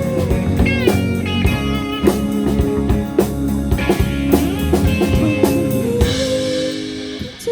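Rock band playing an instrumental passage: guitar lines with bent notes over drums and bass, with the drums thinning out near the end.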